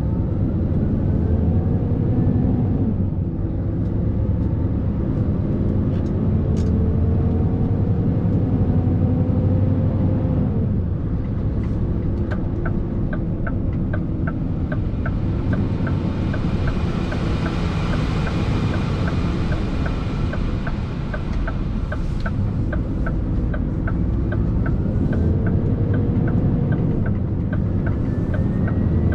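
Scania R650's 650 hp V8 diesel engine pulling under load, its pitch climbing slowly for several seconds and then dropping back between gears. From about halfway through, a regular ticking about twice a second runs with it, like a turn-signal relay.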